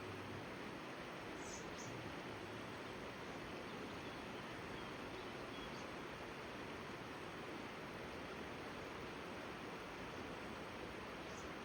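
Steady, even rushing of river water, with a few faint short high chirps over it.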